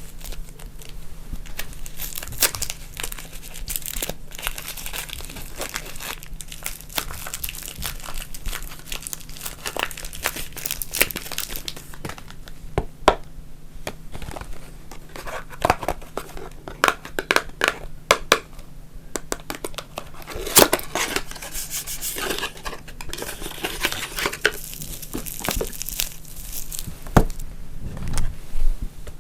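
Soap packaging being unwrapped by hand: wrappers crinkling and tearing, with a steady run of sharp crackles and clicks.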